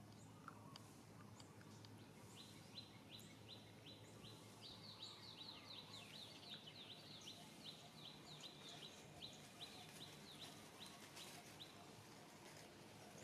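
Quiet background ambience in which a bird gives a fast run of short, high chirps, several a second, starting a couple of seconds in and stopping near the end.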